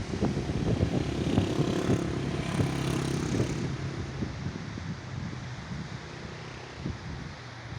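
A motor vehicle engine running with wind buffeting the microphone. The engine note is strongest in the first few seconds and then fades away.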